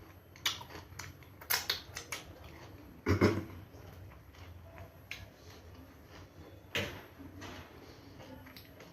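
Close-miked eating: chewing and crunching of food with scattered sharp clicks, and one louder thump about three seconds in.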